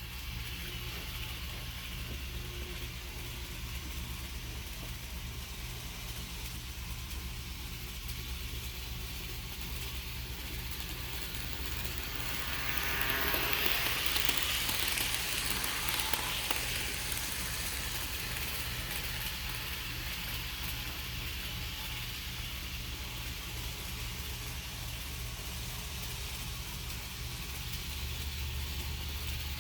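HO scale model freight train running around its track: a steady low electric hum with rolling wheel noise, which swells louder for a few seconds about halfway through as the train passes close, then settles back.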